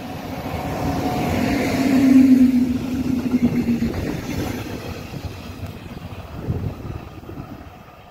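Electric locomotive-hauled train of double-deck coaches passing close by. The sound swells to its loudest about two seconds in, with a steady hum as the locomotive goes by. The rumble of the wheels on the rails then fades as the coaches pass and the train moves away.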